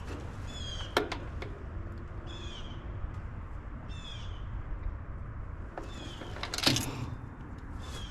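A bird calling repeatedly, a short, high, downward-sliding call about every one and a half to two seconds. A sharp click sounds about a second in and a louder knock near seven seconds, over a steady low hum.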